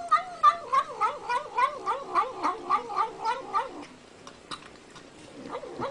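An animal's long yowl, its pitch wobbling up and down about three times a second, breaking off after about four seconds.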